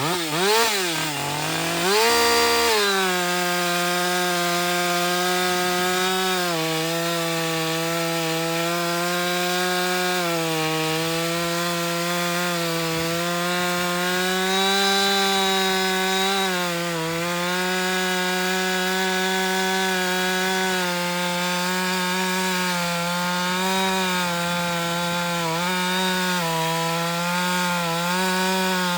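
Two-stroke chainsaw revved up and down a few times, then held at full throttle cutting into a sycamore stump with a new Dukes chain. The engine pitch stays steady, with small dips now and then as the chain bites.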